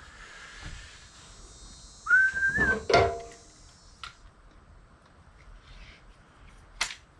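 A short high tone that rises and then holds for under a second, then a sharp clank with a brief metallic ring as a piece of scrap brass or copper is dropped into a sorting bucket. A single sharp click follows near the end.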